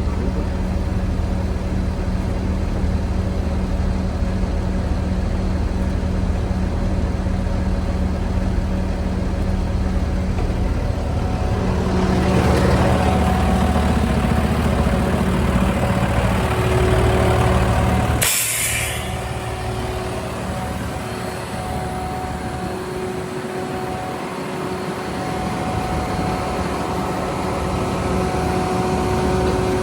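Jet fuel truck's engine running steadily, swelling a little before a short, sharp air hiss about 18 seconds in, after which the low engine sound largely drops away and a fainter steady hum remains.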